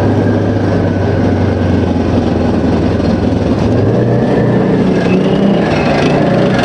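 Type 74 main battle tanks' air-cooled V10 two-stroke diesel engines running as the tanks drive past, a loud steady drone with a high whine over it. The drone climbs in pitch about four seconds in.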